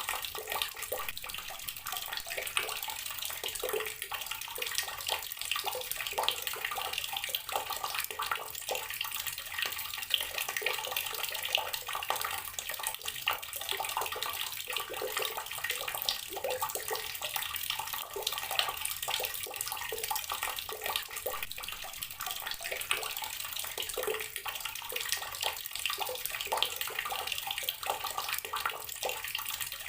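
Outdoor water tap running steadily, a continuous stream splashing with constant small spatters.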